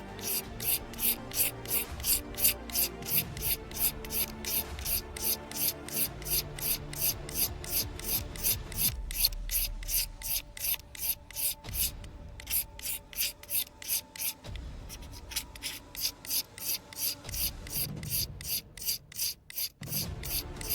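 Magnesium fire-starter bar being scraped in quick, even rasping strokes, about three a second, shaving off magnesium as tinder for lighting a fire.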